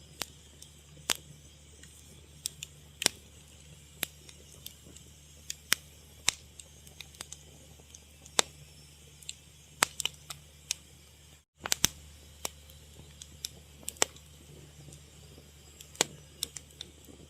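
Wood fire crackling: irregular sharp pops and snaps, one or two a second, over a steady low rumble, with a brief cut to silence about eleven seconds in.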